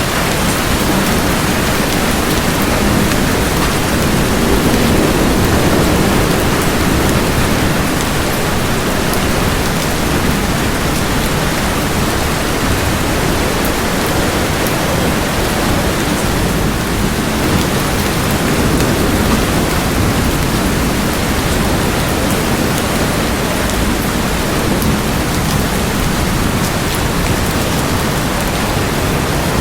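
Steady heavy rain, a dense hiss with fine drop patter, and a low rumble of distant thunder that swells about five seconds in.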